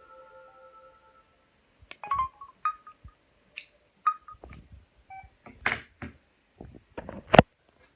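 Tail of a Samsung GT-S5230W ringtone fading out, then a scatter of short electronic beeps from the phone's key or touch tones, mixed with sharp clicks and knocks of the handset being handled; the loudest knocks come in the second half.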